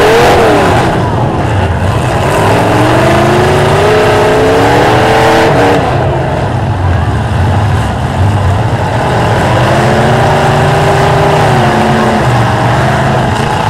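Several demolition derby cars' engines revving hard together over a steady din of engine noise. The engine pitch climbs from about two seconds in and again from about ten seconds in.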